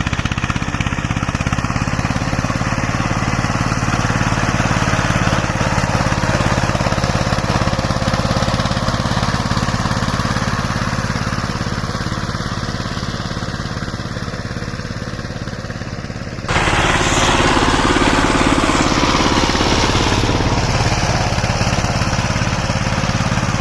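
Saiping 16 hp power tiller's diesel engine running steadily. About two-thirds of the way through, it suddenly gets louder and rougher.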